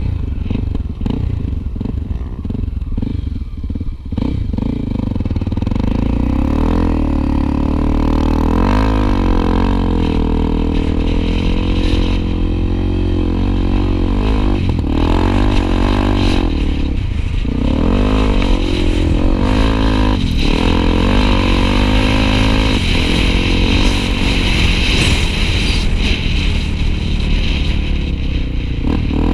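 Honda XR250 Tornado single-cylinder trail motorcycle engine running under way, its revs rising and falling again and again as it rides.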